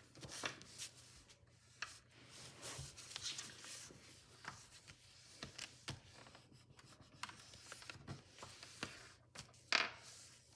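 A sheet of paper being folded and creased by hand: irregular rustling with short, sharp crinkles, the loudest one near the end.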